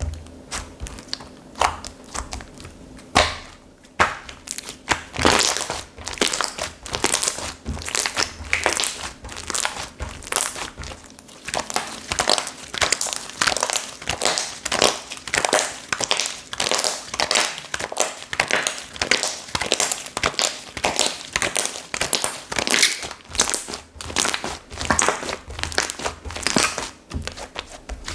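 Hands squishing and stretching a soft slime, making a steady run of crackly clicks and pops, several a second.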